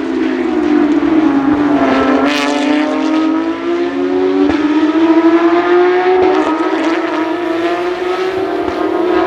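Porsche 911 race car's flat-six engine at high revs under load. Its pitch climbs steadily and drops back briefly at gear changes about four and a half and six seconds in.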